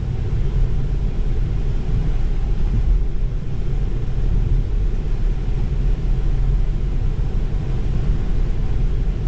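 Steady rumble of tyre and road noise from a Tesla driving along a wet road in the rain.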